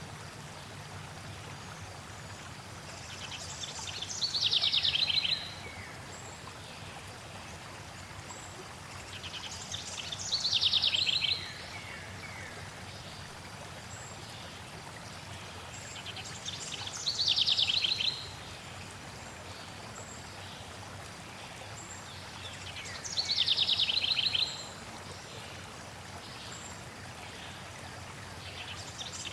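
A songbird repeats the same fast trilled song, falling in pitch, about every six to seven seconds, each song lasting about two seconds. Under it runs a steady rush of flowing water.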